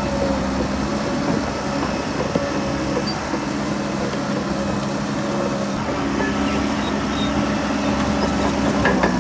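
Heavy diesel engine of earthmoving machinery running steadily with an even drone.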